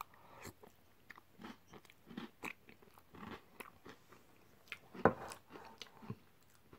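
Chewing a mouthful of jam roly poly and custard: soft mouth clicks and small crunches from the hard, slightly overcooked pastry, with one louder sound about five seconds in.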